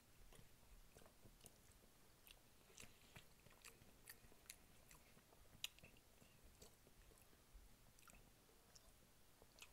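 Faint close-up chewing of soft macaroni and cheese, with scattered small clicks from the mouth and fork.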